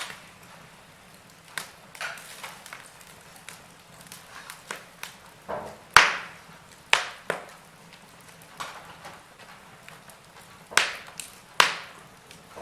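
Wood fire in a fireplace crackling, with irregular sharp pops over a faint steady hiss. The loudest pops come about six seconds in and twice near the end.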